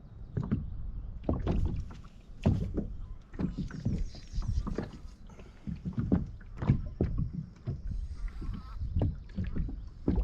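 Irregular low knocks and thumps on the hull of a small rotomoulded plastic boat (Whaly 435), a few a second and uneven in strength.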